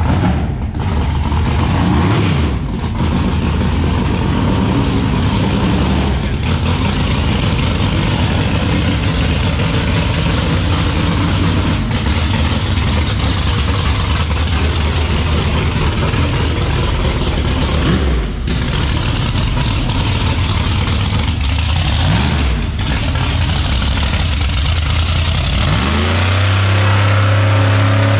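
Drag-racing car engines running loudly, revving now and then; near the end one engine revs up hard, rising in pitch and becoming the loudest sound.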